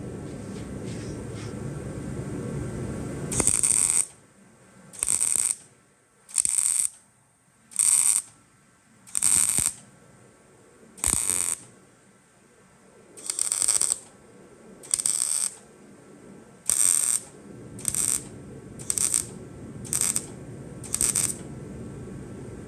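Electric arc welder laying a run of short tack or stitch welds: about thirteen crackling bursts of roughly half a second each, coming every second or so and getting shorter toward the end, over a low steady background hum.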